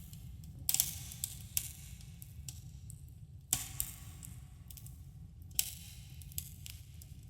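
Wood campfire crackling in a cave: irregular sharp pops and snaps, a few each second at times, over a steady low rumble of the burning fire.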